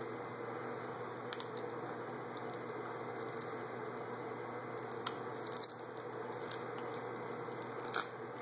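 Seaweed being bitten, torn and chewed: a few small, sharp crackles over a steady background hiss, the sharpest near the end.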